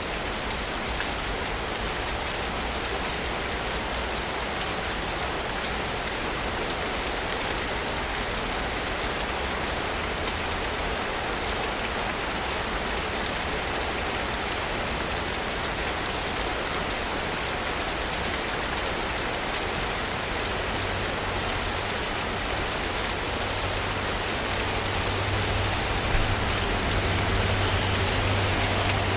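Steady rain falling in a city, an even hiss of drops on surfaces. A low hum comes in during the second half and grows stronger over the last few seconds.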